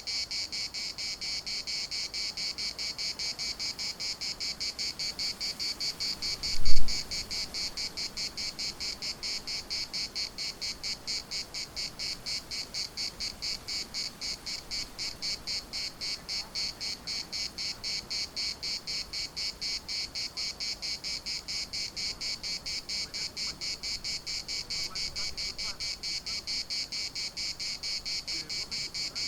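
Cicadas singing in chorus: a loud, high, steady buzzing that pulses rapidly and evenly. A single low thump about seven seconds in is the loudest moment.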